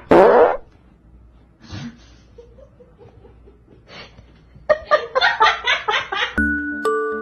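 A loud, short cry falling in pitch, then, near the end, a person laughing in quick bursts. A chiming glockenspiel-like tune starts just before the end.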